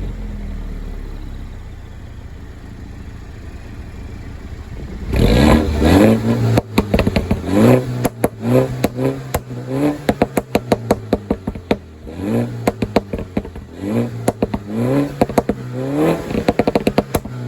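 Mini Cooper S F56's turbocharged four-cylinder engine, running through a resonator-deleted exhaust. It settles back to idle, then from about five seconds in it is blipped in quick repeated revs, with sharp pops and crackles on the overrun between blips.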